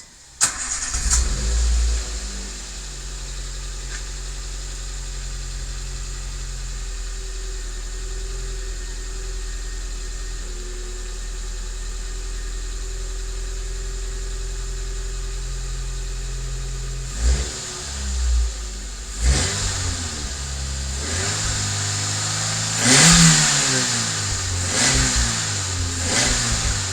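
Nissan March K12 1.2-litre four-cylinder engine starting up through a homemade straight-pipe dual-exit tailpipe, settling into a steady idle, then revved briefly several times in the second half, the biggest rev about two-thirds of the way in. The straight-pipe exhaust is unbelievably quiet.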